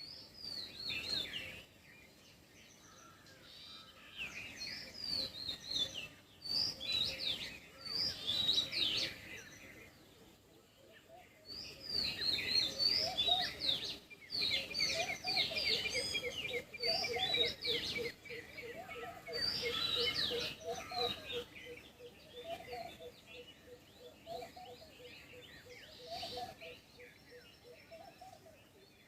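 Several wild birds chirping and singing in quick, overlapping bursts, with a fast high trill about halfway through. Through the second half a low call repeats about once a second over a rapid low pulsing.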